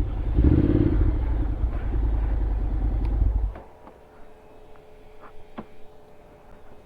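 Honda X-ADV 750's parallel-twin engine running with a low rumble, then switched off about three and a half seconds in, leaving a faint hum and a few light clicks.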